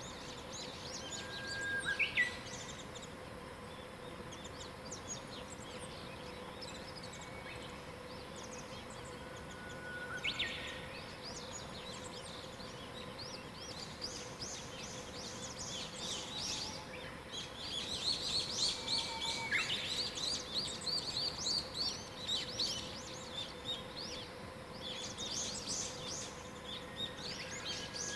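Wild birds singing in the morning: a clear whistled phrase, a held note that breaks into a quick flourish, comes three times. From about halfway, dense rapid high chirping and trills from other birds join in. A faint steady hum runs underneath.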